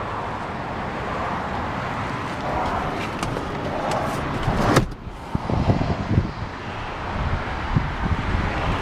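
Outdoor background noise with passing traffic, broken by scattered handling knocks and one sharp knock a little under five seconds in.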